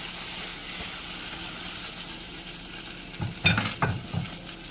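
Omelette frying in butter in a skillet, a steady sizzle. A little over three seconds in comes a short run of knocks and scrapes, the spatula working against the pan to flip it.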